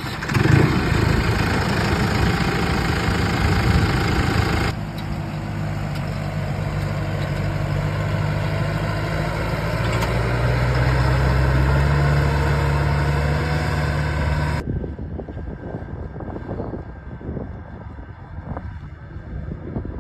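Case IH CX80C tractor's diesel engine running steadily, its note shifting abruptly about five seconds in. It cuts off sharply about fifteen seconds in, leaving quieter wind noise and fainter engine sound.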